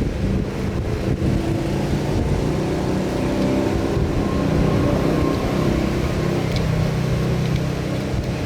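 A motor vehicle engine running steadily, its pitch drifting a little.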